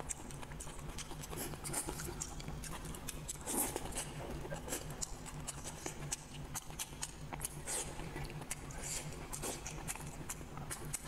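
Close-miked eating sounds: wet chewing and smacking of braised rooster head, with many small irregular clicks over a low steady hum.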